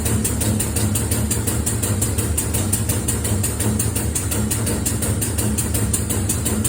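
2019 Land Rover Discovery engine idling steadily after an oil change, with a fast, even ticking of about five a second over the running.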